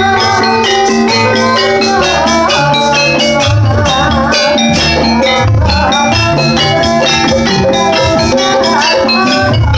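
Javanese gamelan music for a jathilan horse-dance trance session: bronze metallophones and gongs playing fast interlocking patterns over kendang hand drums, with a wavering melody line about three seconds in.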